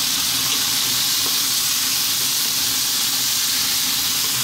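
Chopped tomatoes and ground spices sizzling in hot oil in a wok on high heat, a steady hiss.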